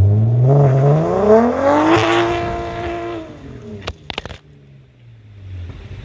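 Turbocharged B58 inline-six of a BMW 340i revving up over about two seconds, holding briefly, then falling back to idle. A few sharp clicks come near the end.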